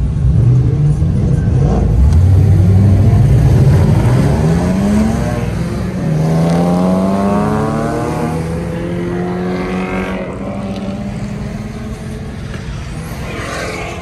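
Sports car engine accelerating hard: its pitch climbs for several seconds, drops at an upshift about six seconds in, climbs again, then settles to a steadier, slightly quieter run.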